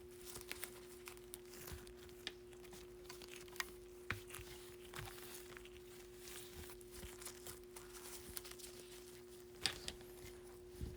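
Faint rustling and scattered light clicks of trading cards in plastic sleeves and top loaders being handled and laid out, over a steady faint hum.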